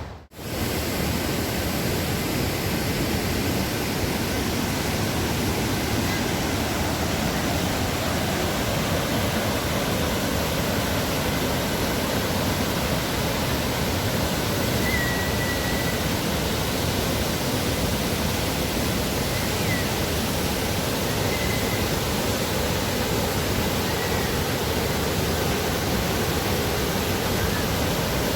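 Steady, dense rush of the Dubai Water Canal's waterfall, water pouring down into the canal. A few faint, short high chirps come through partway in.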